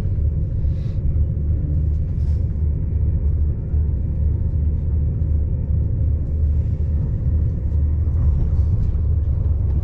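Steady low rumble inside the carriage of a high-speed train running fast.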